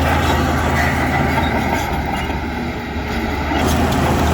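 Heavy diesel earthmoving machinery running steadily under load, a deep engine drone with a brief slight dip in loudness about halfway through.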